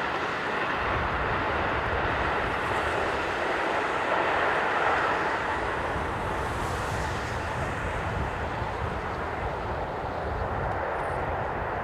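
Jet airliner's engines, a steady rushing roar that swells about four to five seconds in and then eases, with gusty wind buffeting the microphone.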